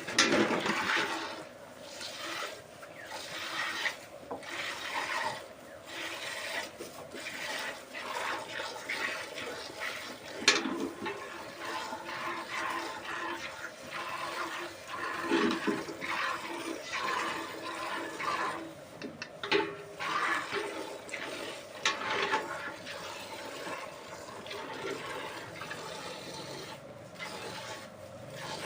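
Milk squirting into a pail in quick rhythmic streams as a cow is milked, with about one burst of spray a second or so.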